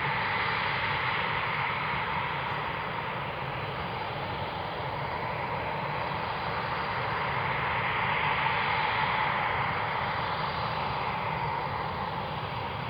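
Eurofighter Typhoon's twin EJ200 turbofan jet engines running steadily at taxi power as the jet taxis, a continuous jet whine over a low rumble. It swells slightly about eight seconds in and eases near the end.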